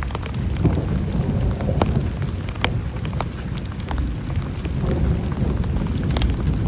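Heavy rain falling, individual drops striking sharply and irregularly over a steady low rumble.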